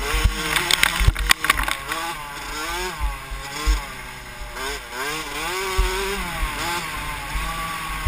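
Mini motocross bike engine revving up and down repeatedly as it is ridden hard around a dirt track, with wind rushing over the helmet-mounted microphone. A few sharp knocks sound about a second in.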